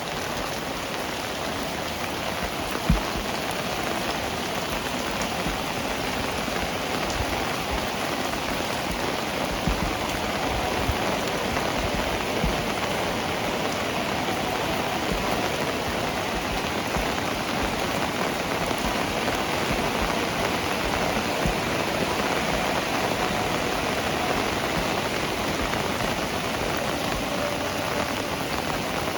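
Steady heavy rain, with one sharp thump about three seconds in.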